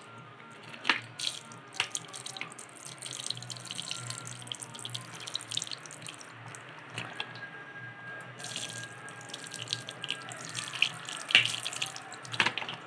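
Water being poured into a bowl of split moong dal to soak it, with a few scattered clicks and clinks.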